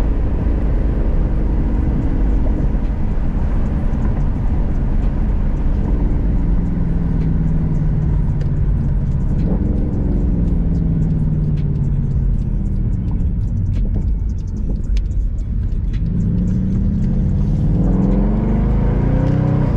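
Mercedes-AMG C63 (W204) 6.2-litre V8 with an aftermarket exhaust, heard from inside the cabin while driving, over a steady low road rumble. The engine climbs in pitch under acceleration about a third of the way in, eases off, then pulls up again near the end.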